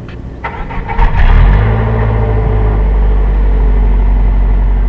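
Car petrol engine cranking and catching about a second in, then running steadily at idle. It starts now that the blown fuel pump fuse, which had stopped fuel reaching the engine, has been replaced.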